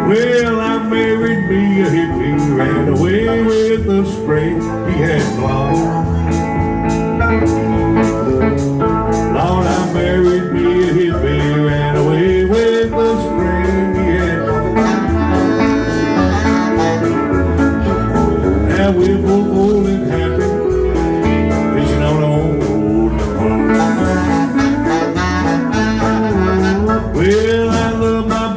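Country band playing an instrumental passage: guitars over bass and a steady drum beat.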